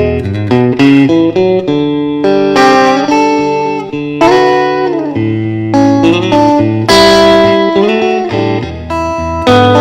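Electric guitar, a Fender Stratocaster, playing a blues instrumental: picked single notes and chords, with bent notes about three seconds in and again near the middle.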